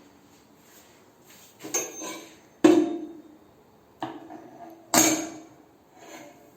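Five sharp knocks, each with a short ring, spaced about a second apart; the second and fourth are the loudest.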